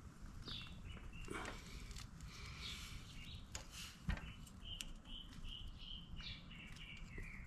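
Faint birdsong: a small bird chirping in short high notes, with a quick run of repeated notes in the second half. About four seconds in there is a single sharp click, a tool or part knocking.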